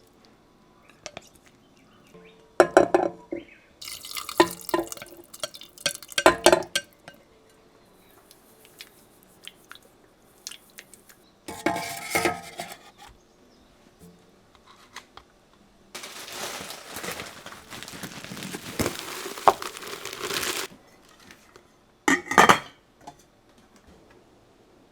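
Kitchen sounds: dishes, cutlery and glassware clinking and knocking as they are handled and set down, with about four seconds of running water around two-thirds of the way through.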